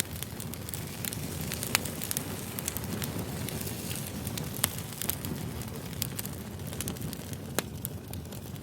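Campfire burning: a steady low rumble of flames with irregular crackles and a few sharp pops.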